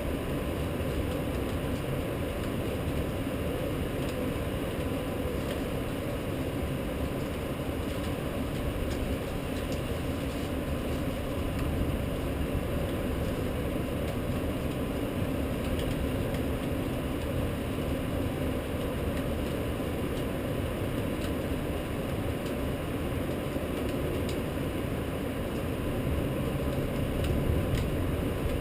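Steady rushing rain of a night rainstorm blending with a low city rumble, with a few faint ticks.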